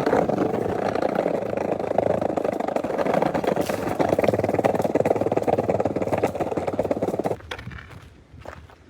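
Skateboard wheels rolling over a rough road surface, a steady grainy rumble that stops about seven seconds in.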